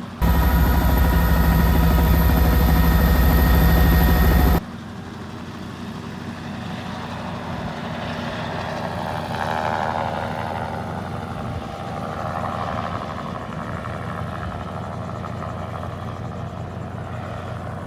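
Helicopter engine and rotor noise, steady, in clips that cut abruptly. A loud stretch with a high whine lasts about four seconds, then drops suddenly to a quieter steady drone.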